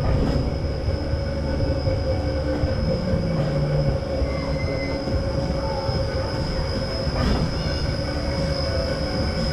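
Machinery running steadily, with a constant high whine over a low rumble.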